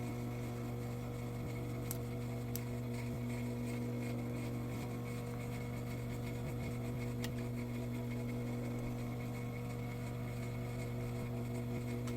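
Sewing machine running with a steady, even hum, stitching a trouser seam, with a few faint ticks.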